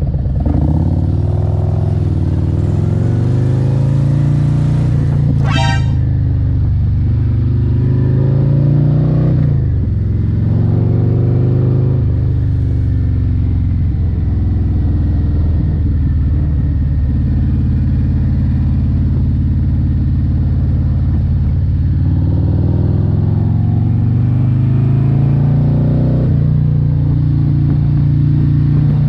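Harley-Davidson Road Glide's Milwaukee-Eight 117 V-twin running on the road, its engine note rising and falling as the bike speeds up and slows, with a sharp drop and climb about nine seconds in.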